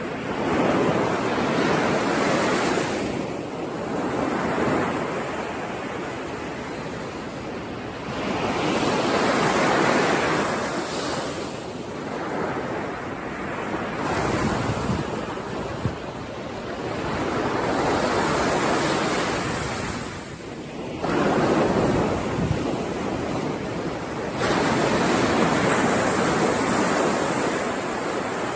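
Sea waves breaking and washing up the shore, the surf swelling and ebbing every few seconds.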